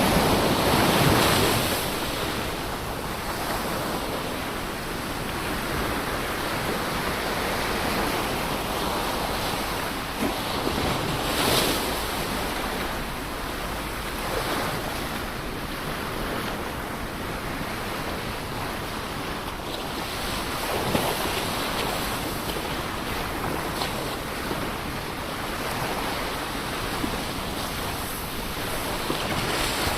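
Ocean surf washing on a shore: a steady rush of breaking waves, swelling louder as a wave breaks about a second in and again near the middle.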